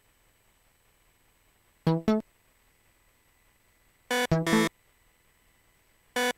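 Synthesizer playing short bursts of a riff: two quick notes, then a group of three, then one more near the end, with near silence between.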